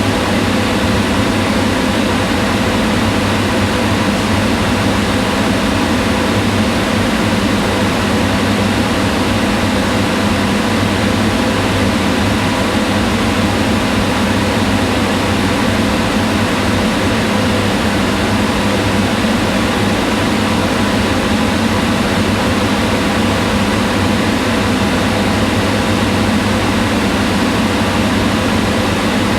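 Kitchen range hood fan running steadily: a constant whirring hum with a low drone and an even rush of air.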